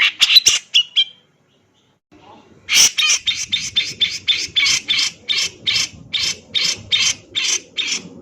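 Male grey-cheeked bulbul (cucak jenggot) singing a quick burst of harsh notes, then after a short pause a long, even run of loud harsh notes, about three or four a second.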